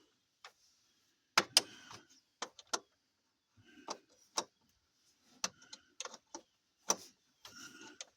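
Irregular sharp metallic clicks and clinks of hand tools working a bolt on the truck's radiator. The loudest pair comes about a second and a half in.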